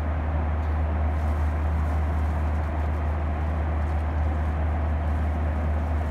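Steady cabin noise inside a Boeing 737-900ER airliner: an even, low drone of engines and airflow with a hiss above it, unchanging throughout.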